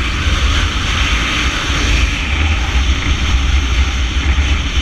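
Kawasaki Versys 650 motorcycle riding at speed in a convoy, its parallel-twin engine running steadily under a heavy rush of wind on the microphone.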